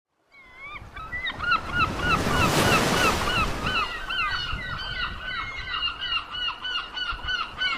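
A flock of seagulls calling over and over in short, overlapping cries, with sea waves washing underneath; one wave swells up about two and a half seconds in.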